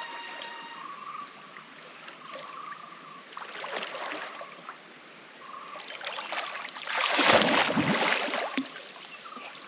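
Water splashing in a swimming pool as a person moves through it, with a bigger, louder splash about seven seconds in.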